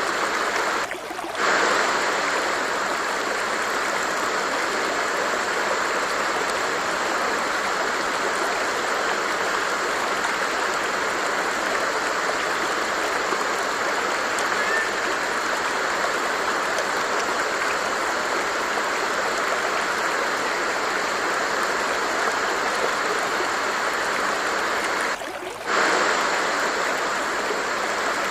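Water flowing steadily in a stream, an even rushing sound that briefly drops out twice, about a second in and near the end.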